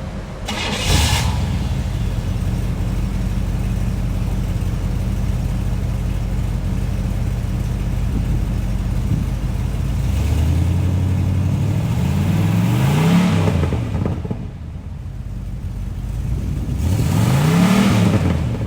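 A cold 1979 Pontiac Trans Am V8 idling steadily after a short loud burst about a second in. It is then revved up and back down twice, the pitch rising and falling each time.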